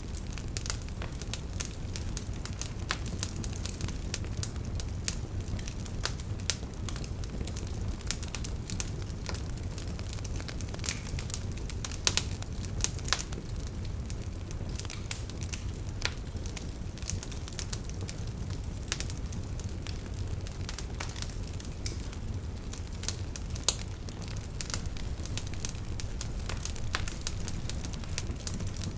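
Campfire crackling: irregular sharp pops and snaps of burning firewood over a steady low rumble of the flames.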